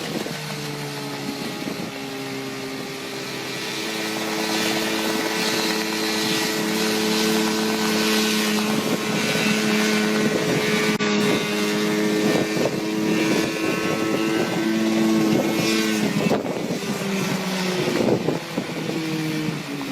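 The engine of a homemade helicopter running at a steady speed, a continuous motor hum with rotor noise; its pitch dips briefly near the end and then holds.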